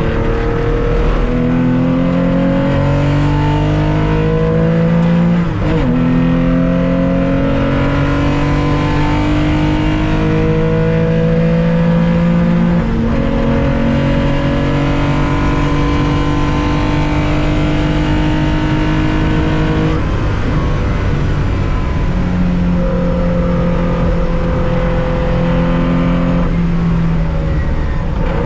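Onboard sound of a 1965 Porsche 911 2.0's air-cooled flat-six under racing load, revs climbing and falling back at gear changes about five and a half and thirteen seconds in. The revs drop again about twenty seconds in, run steadier, then ease off near the end.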